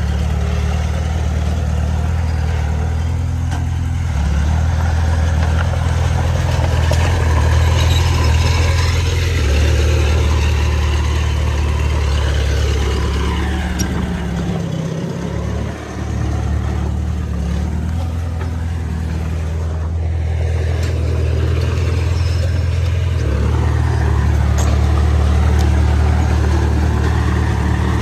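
Heavy diesel engine of a bulldozer working, its low drone rising and falling in steps as the load changes, with a brief dip about halfway.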